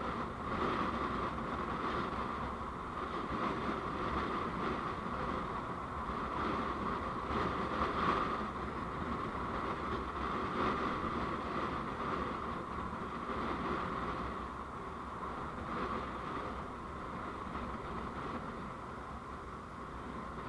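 Steady road noise of a vehicle travelling on the road, heard from the moving vehicle, rising and falling slightly in level.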